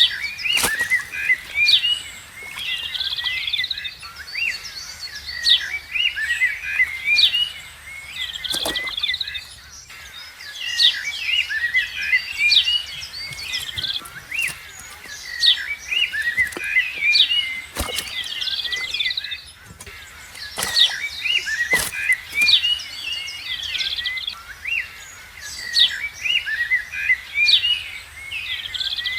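Many small birds chirping and calling in a dense, busy chorus of quick high chirps, broken now and then by a sharp, brief swish or click.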